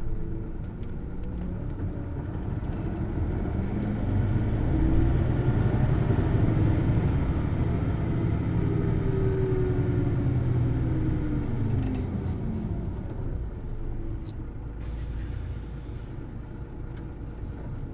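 On board a Hino Blue Ribbon City Hybrid bus: the diesel engine revs up, runs high for several seconds, then falls away, with a faint high whine gliding down in pitch as it eases off. A few light clicks come near the end.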